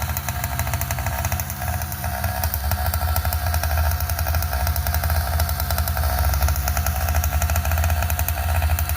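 100cc gas bicycle engine running steadily, with rapid, even firing pulses that grow a little louder after about two seconds.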